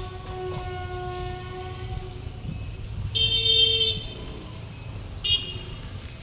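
Train running with a low rumble while its horn sounds: one loud blast about three seconds in lasting about a second, then a short toot a little after five seconds.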